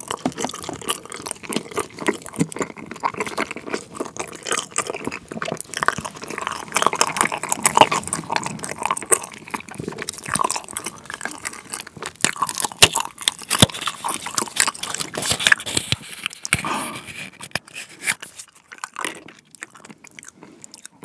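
Close-miked chewing of Trolli Planet Gummi, a chewy, rice-cake-like gummy with a liquid jam centre: dense, sticky, wet clicks and smacks that thin out and get quieter near the end.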